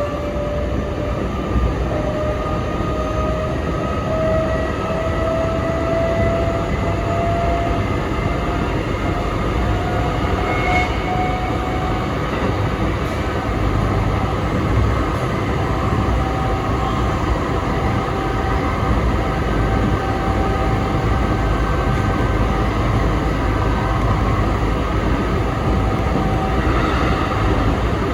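Sanyo Electric Railway 3050 series electric train running between stations, with a steady low rumble of wheels on rail. Over it, a thin motor whine climbs slowly in pitch for the first dozen seconds as the train gathers speed, then holds steady.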